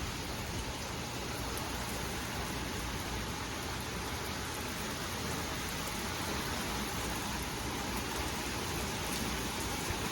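Steady rain and wind of a small passing thunderstorm: an even hiss of rainfall.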